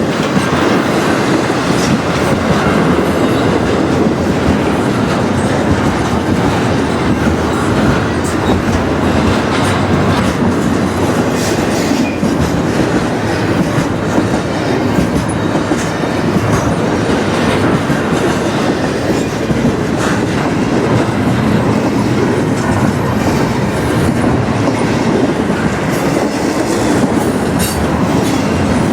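A train rolling past on the rails: a steady, loud rumble of railcars with scattered clicks and clatter of steel wheels over the track.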